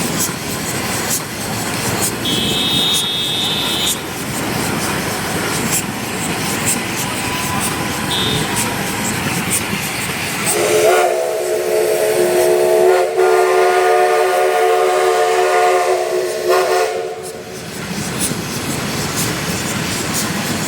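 Steam locomotive running with a steady hiss, then sounding its whistle about halfway through: one long chord of several tones lasting about seven seconds, with a brief dip partway, before the hiss returns.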